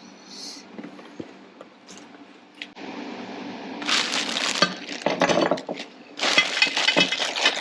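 Crinkling and crackling of packaging being handled, which builds about three seconds in and comes in two louder rustling spells, the second near the end.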